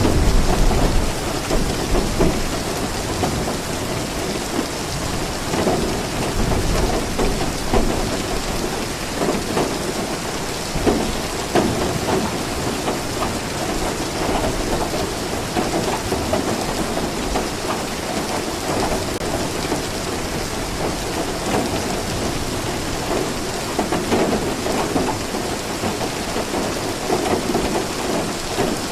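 Steady heavy rain falling, a dense even hiss, with a low rumble swelling near the start and again a few seconds later.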